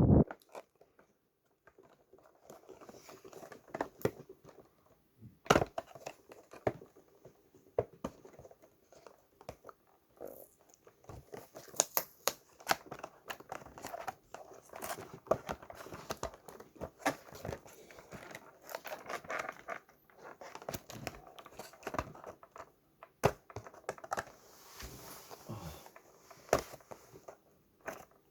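Plastic packaging being crinkled and torn, with many irregular sharp clicks and knocks.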